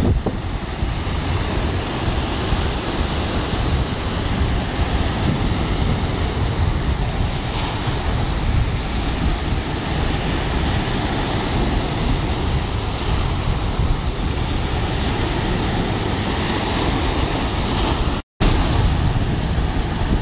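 Sea waves washing onto a beach, a steady rushing surf, with wind buffeting the microphone as a heavy low rumble. The sound drops out for a split second near the end.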